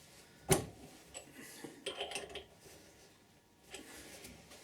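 Workshop handling noises: one sharp knock about half a second in, then faint scattered clicks and rattles of small tool parts being handled.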